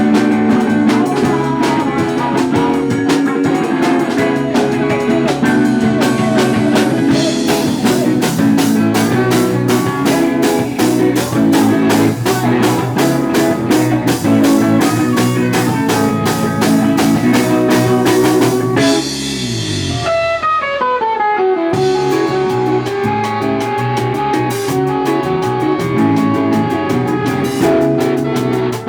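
A live rock band playing, with guitars and a drum kit. A fast, even hi-hat rhythm comes in about seven seconds in. Near the two-thirds mark the drums drop out under a falling glide in pitch, then the full band crashes back in.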